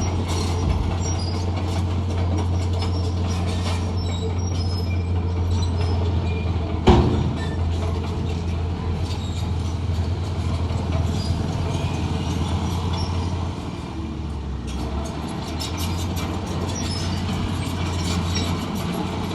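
Heavy diesel earthmoving machine running steadily under load with metallic rattling and clatter, and one sharp, loud clank about seven seconds in.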